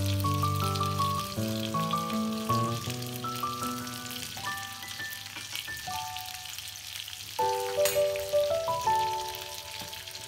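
Salmon fillets and melting butter sizzling in a nonstick frying pan as a fork pushes the butter around, with one light click about eight seconds in. Background music plays throughout.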